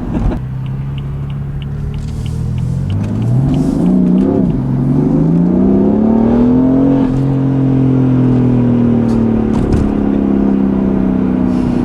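Car engine accelerating: the revs climb steadily over about four seconds, with a brief dip partway, then settle and hold at a steady higher pitch as the car cruises.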